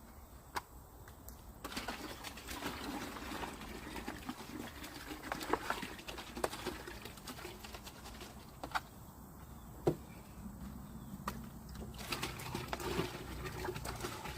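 Handling noise from putting a portable shower together: a scattered series of sharp plastic clicks and knocks over rustling.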